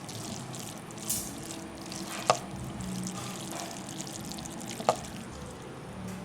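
Saucy instant noodles being stirred and lifted in a pan, making a steady wet, squishy sound. A utensil clicks sharply against the pan twice, a few seconds apart.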